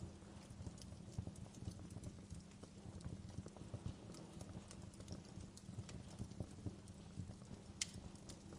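Wood fire crackling in a fireplace: a steady run of small irregular pops and snaps over a low rumble, with one sharper pop near the end.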